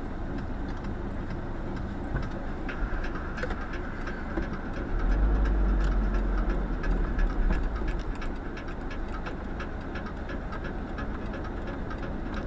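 A moving vehicle's steady rolling noise with a run of regular clicks, and a low rumble that swells from about five seconds in and eases off about three seconds later.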